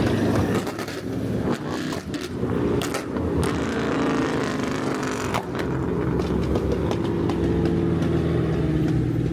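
Dodge Charger R/T's 5.7 L Hemi V8 engine and exhaust, a steady low hum while cruising, with a few brief clicks about three seconds in.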